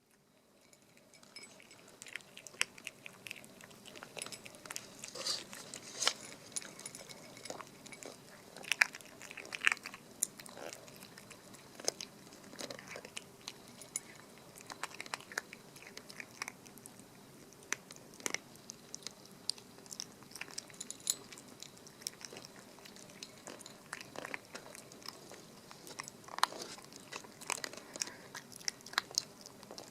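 Chihuahua puppy crunching dry kibble, irregular crisp crunches and clicks of biting and chewing.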